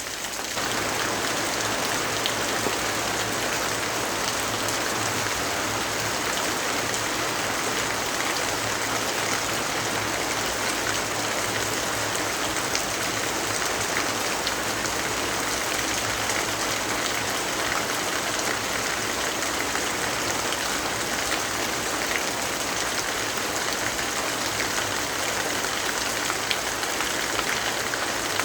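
Steady rainfall, a dense even hiss of drops with no let-up. It gets a little louder about half a second in.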